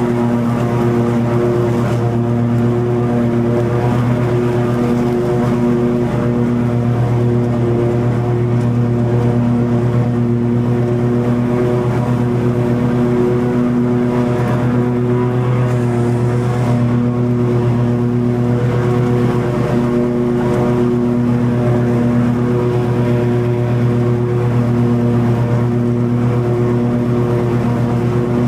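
Toro TimeCutter 50-inch zero-turn mower running steadily at a constant throttle with its blades engaged, cutting long grass: an even engine drone that holds the same pitch.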